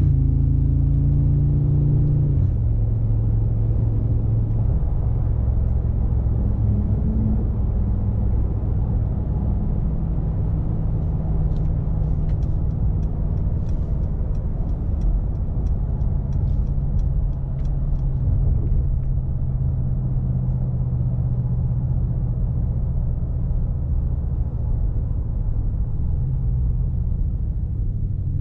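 The 4.0-liter twin-turbocharged V8 of a 2019 Mercedes-AMG G63 running at a steady low drone while driving, its pitch dropping in the first couple of seconds and then holding steady. A run of faint ticks, about two a second, comes in the middle.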